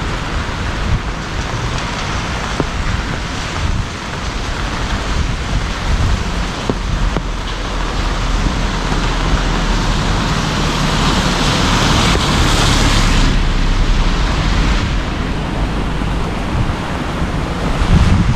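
Heavy rain falling steadily, with low rumbling wind noise on the microphone. A louder hiss swells and fades about twelve seconds in.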